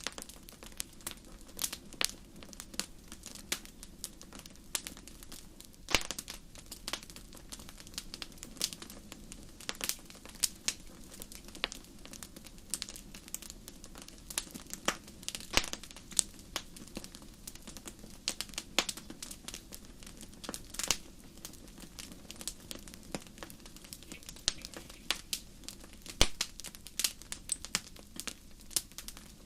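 Wood fire crackling in a fireplace: irregular sharp pops and snaps, several a second with a few louder cracks, over a soft steady hiss of flame.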